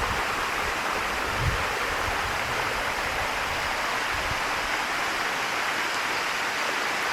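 Waterfall cascading over calcium-deposit limestone rocks: a steady rush of splashing water. A couple of brief low rumbles sound under it about a second and a half in and again about four seconds in.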